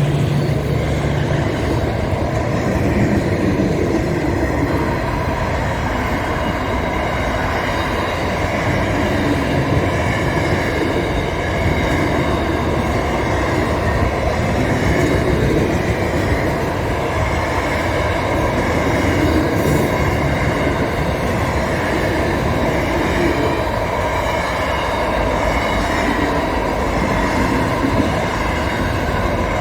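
Train rolling along the track: a steady rumble of wheels on rail, with thin high tones held above it.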